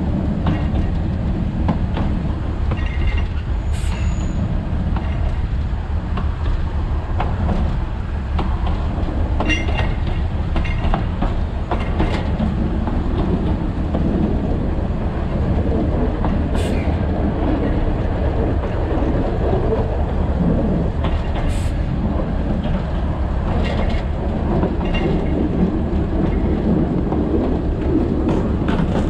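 Alishan Forest Railway narrow-gauge train running, heard from the cab: a steady low rumble with scattered clicks from the rails and a few short, high wheel squeals.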